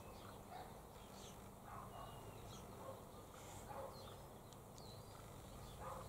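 Faint, scattered bird chirps and short whistled calls over a quiet background.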